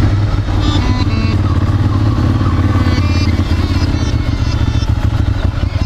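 Ducati Monster 796's air-cooled L-twin engine running steadily as the motorcycle rides along.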